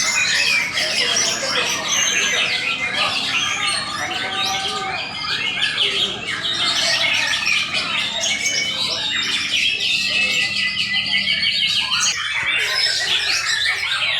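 Many caged songbirds singing at once, a dense tangle of overlapping chirps, whistles and rapid trills with no pause.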